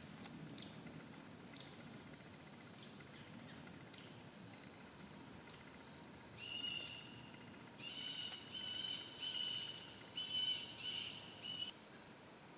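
Woodland ambience: insects buzzing steadily at a high pitch, and about halfway through a bird calls about six times in quick succession, louder than the insects.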